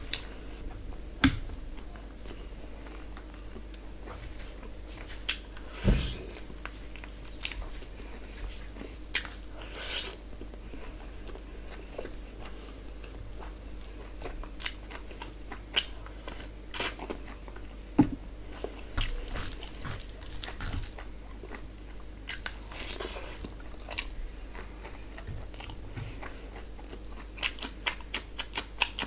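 Close-miked eating sounds: a person chewing and biting mouthfuls of curry, meat and rice eaten by hand, with many wet mouth clicks and a few sharper bites. A quick run of clicks comes near the end.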